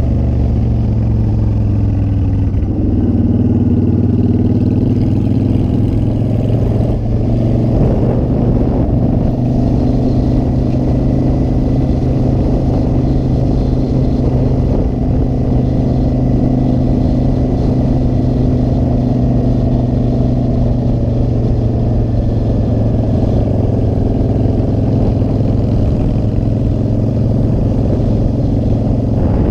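Motorcycle engine running under way. Its note rises briefly a few seconds in, then holds at a steady cruising pitch.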